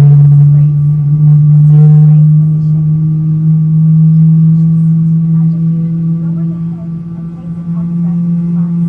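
Boeing 777 jet engines heard from inside the cabin as a loud, steady low hum whose pitch slowly rises.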